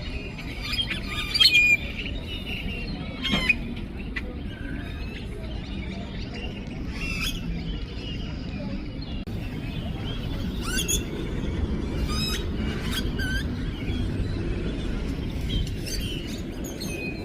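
A large flock of birds calling and chirping together from one tree, many overlapping short chirps and whistled calls, the loudest a few seconds in, over a steady low background rumble.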